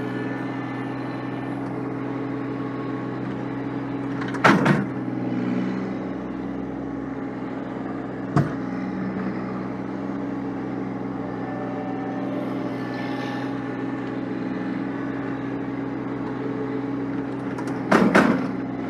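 Snow-plowing vehicle's engine running steadily, with two loud bangs, one about four seconds in and one near the end, and a sharp click about eight seconds in.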